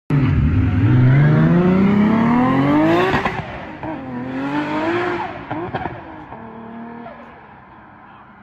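A car accelerating hard away, its engine revving up in rising pitch for about three seconds, dropping at a gear change and climbing again, then fading as it pulls off into the distance.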